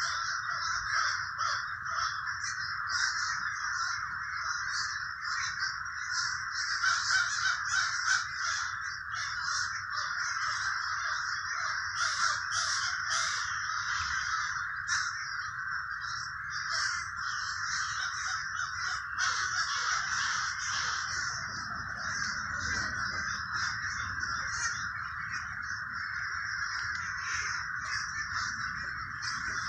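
A large flock of crows cawing without a break, many calls overlapping into a steady din, with scattered higher chirps from other birds mixed in.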